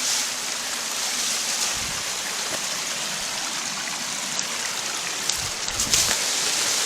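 Small creek and waterfall water rushing steadily, with a few low thumps about two seconds in and again near the end.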